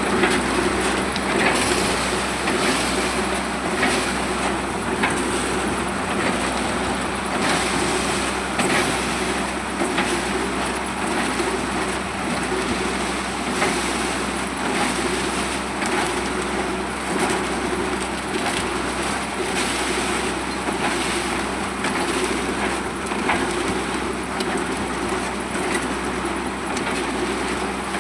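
Heavy diesel machinery running steadily during a concrete pour for a pile foundation, with irregular knocks and rattles over a constant low hum.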